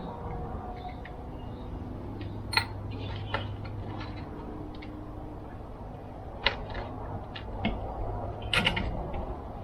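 Scattered clicks and light knocks of small metal chainsaw parts and hand tools being handled during reassembly, a few seconds apart, over a steady low hum.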